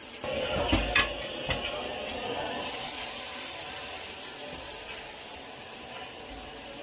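Banquet kitchen cooking sounds: a few sharp knocks of utensils on pots or dishes about a second in, over a steady hiss of frying and steam.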